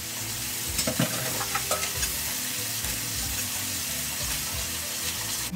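Ground onion, tomato, ginger and garlic paste sizzling in hot oil in a metal wok while a metal ladle stirs it, with a few knocks of the ladle against the pan about a second in.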